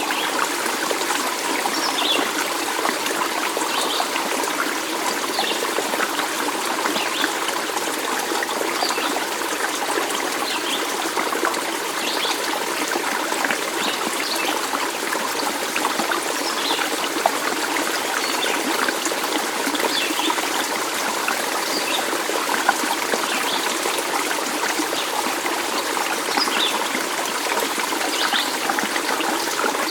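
Stream water trickling and flowing steadily over rocks, with small higher splashes scattered throughout.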